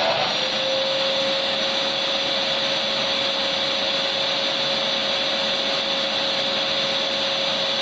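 Electric vacuum cleaner running steadily: an even rush of air with a constant whine from the motor.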